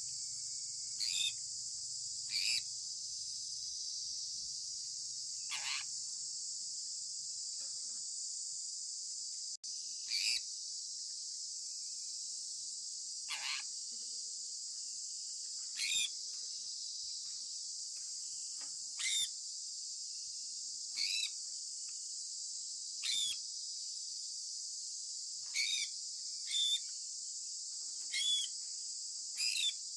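Short bird calls falling in pitch, each about a third of a second, repeating every one to three seconds. Under them runs a steady high-pitched chorus of crickets.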